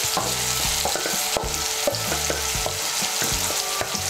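Chopped onion and tomato sizzling in hot mustard oil in a wok as a paste of ground mustard seed, poppy seed and green chilli goes in from a bowl. A steady hiss runs throughout, broken by scattered light knocks and scrapes.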